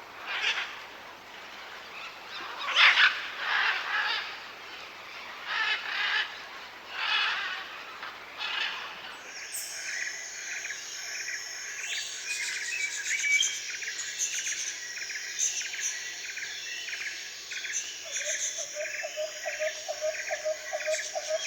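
Birds calling: a series of separate loud calls a second or two apart, then a sudden change about nine seconds in to a dense chorus of rapid, repeated calls over a steady high-pitched buzz. Fast pulsing lower calls join near the end.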